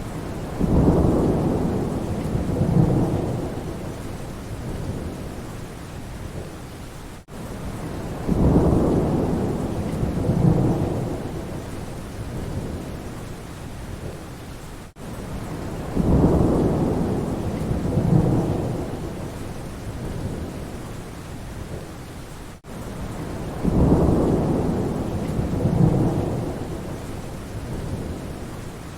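Steady rain with rolling thunder: a deep rumble swells up four times, about every seven and a half seconds, each time with two peaks and a slow fade. It is the same short recording repeated in a loop, with a brief dropout at each join.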